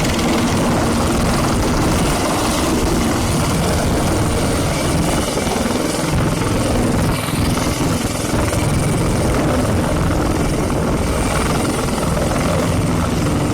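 Helicopter running loud and steady, its rotor and engine noise continuous with no break.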